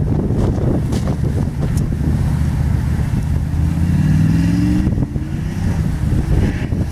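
Chevy truck engine working hard as the truck pushes through deep snow. The revs climb in a rising pitch about three and a half seconds in and fall back about five seconds in. Wind noise on the microphone.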